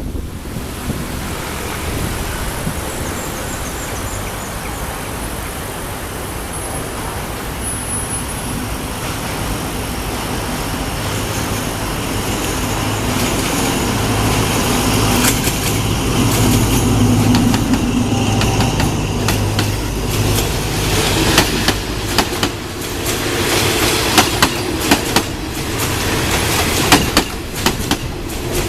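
Diesel train passing over a railway bridge: a low engine drone builds through the middle, then rapid, irregular clacking of steel wheels over the rail joints fills the last several seconds.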